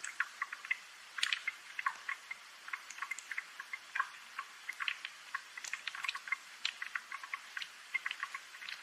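Raindrops dripping and tapping in an irregular patter of small, sharp ticks, several a second, light and without any low rumble.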